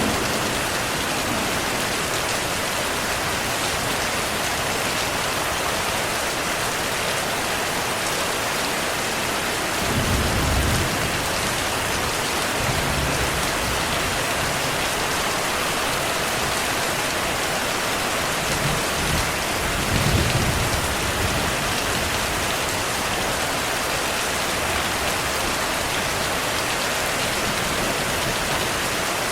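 Heavy, steady rain falling, with low rolls of distant thunder rumbling twice, about a third of the way in and again past the middle.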